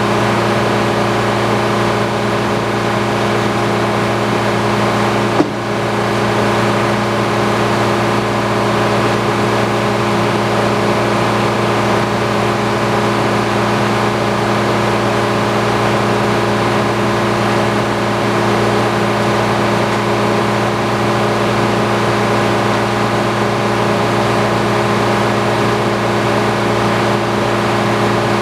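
Antique circular sawmill running steadily, a loud even machine hum with several steady tones, and one sharp click about five seconds in.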